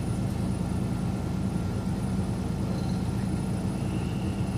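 Steady low drone of a semi truck's engine and road noise, heard from inside the cab while cruising on the highway.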